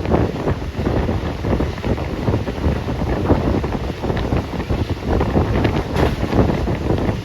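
Wind buffeting the microphone: a loud, gusty rumble of noise with no steady tone.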